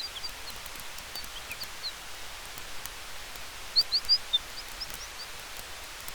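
Steady soft hiss of wind through forest trees with a campfire's faint crackle, and scattered short high bird chirps, a brisk cluster of them about four seconds in.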